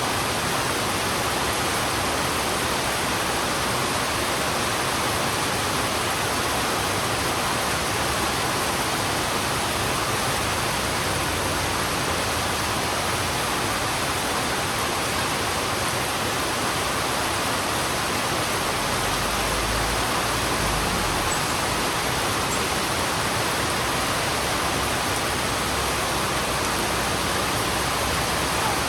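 Heavy rain falling on a road, a dense, steady hiss. A brief low rumble shows underneath about two-thirds of the way through.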